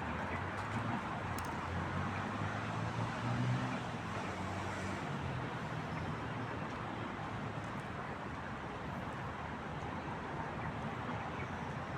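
Road traffic noise from passing cars. A low engine hum from a nearby vehicle fades out about halfway through.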